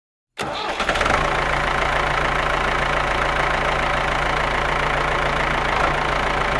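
Tractor engine starting suddenly and then idling steadily.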